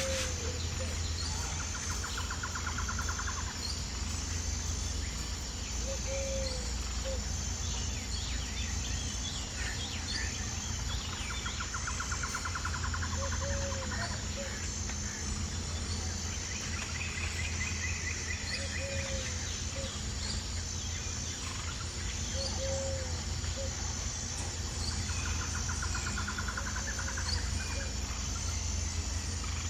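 Insects chirring steadily in a high, evenly pulsing tone, with several bursts of trilling and a short low call that repeats every five or six seconds, over a steady low rumble.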